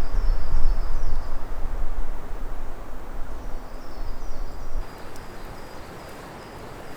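Gusty wind buffeting, easing off about five seconds in. A bird sings two runs of short, high, stepped phrases over it.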